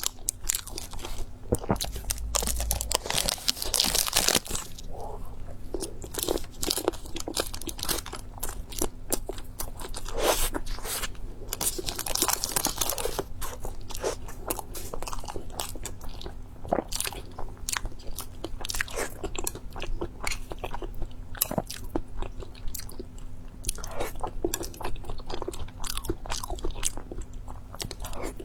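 Close-up crunchy chewing and biting: a continual run of crisp, irregular crackles from food being bitten and chewed, heavier in stretches early on, around the middle and near the end.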